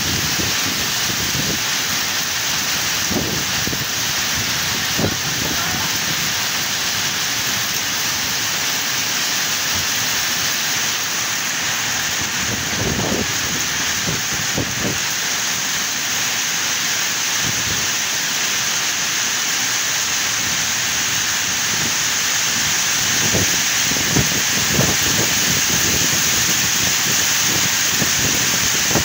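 Heavy rain falling steadily, a loud even hiss, with a few brief low thumps now and then.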